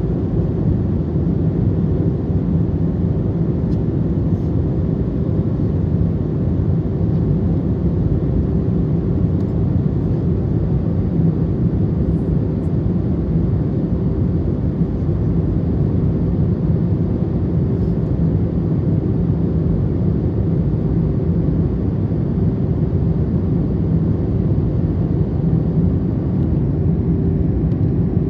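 Airbus A321 cabin noise heard from a window seat during the descent: a steady roar of engines and airflow with a constant low hum, unchanging throughout.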